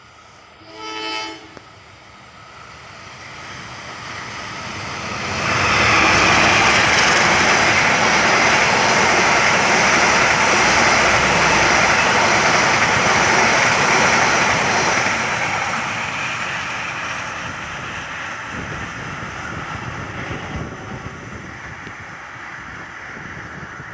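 Train horn sounding one short blast, then the train rushing past at speed at close range. The passing noise builds over a few seconds, holds loud for about nine seconds, and then fades slowly.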